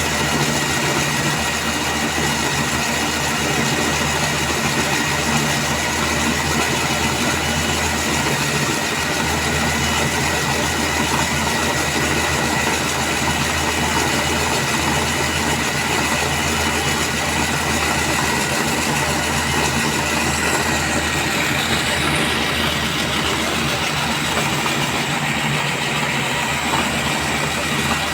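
Core drilling machine running steadily as it bores a hole through concrete: a steady high whine over a low hum and grinding noise.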